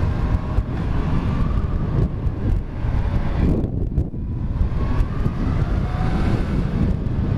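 2001 Yamaha FZ1's 1000 cc inline-four with an aftermarket exhaust running while ridden, with wind rush on the microphone. There is a brief lull about four seconds in, then the engine pitch rises again.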